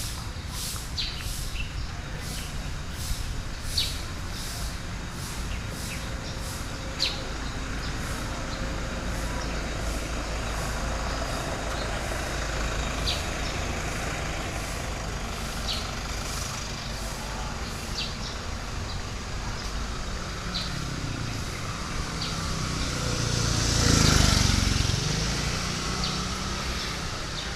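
Steady low outdoor rumble with faint ticks about once a second, and a road vehicle passing close near the end, swelling to the loudest point with a hiss.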